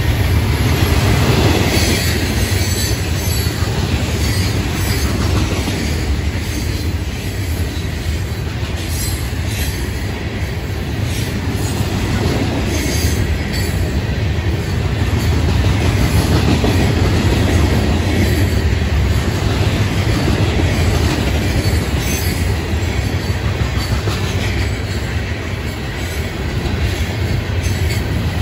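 Freight train's hopper and box cars rolling past, the steady heavy rumble and clatter of steel wheels on the rails.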